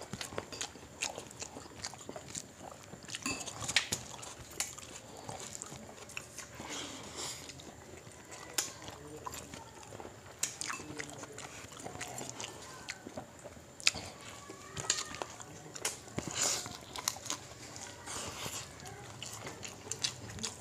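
Close-up chewing and lip-smacking of people eating fried fish and rice with their hands, a string of scattered short wet smacks and clicks.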